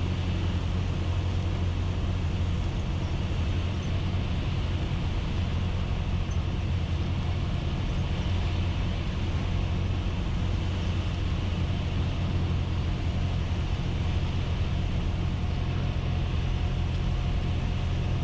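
Cessna 172S's four-cylinder Lycoming engine and propeller running steadily in flight, heard inside the cockpit as an even, unchanging drone.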